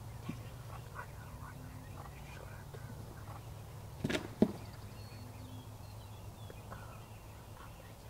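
Wild turkey gobbling once in a short, loud burst about four seconds in, over faint songbird chirps.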